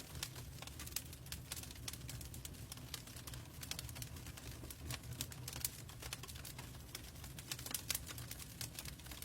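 Logs burning in a fireplace, crackling with frequent irregular sharp pops over a low steady rumble.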